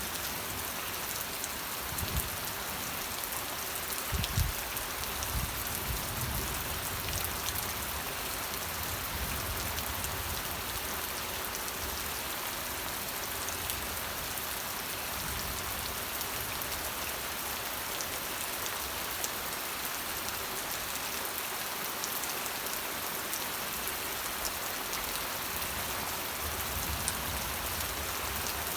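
Steady rain falling on a surface, a dense hiss with individual drops ticking through it and a few soft low thuds, the loudest about four seconds in.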